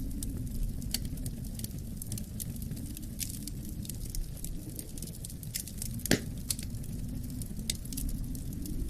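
Wood fire crackling with scattered sharp pops, one louder crack about six seconds in, over a low rumble of wind that swells and eases.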